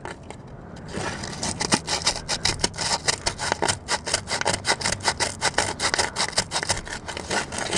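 Sandpaper rubbed quickly back and forth over the cast-iron engine block's casting numbers, a rapid run of scraping strokes several a second. It starts about a second in and stops near the end.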